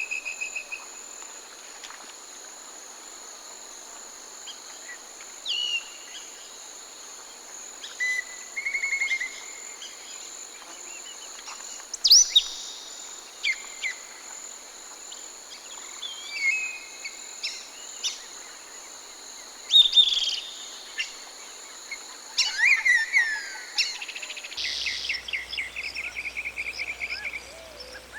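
Several forest birds calling: scattered chirps, short trills and sharp down-slurred calls over a steady high-pitched insect drone. Near the end the insect drone cuts off and a fast trill of rapidly repeated notes follows.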